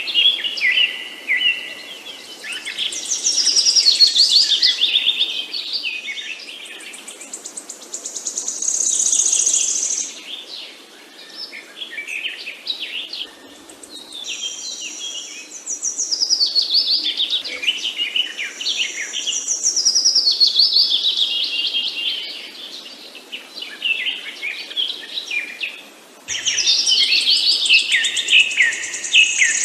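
Several songbirds chirping and trilling in rapid, overlapping phrases a few seconds long, with brief lulls between, over a faint steady background hiss.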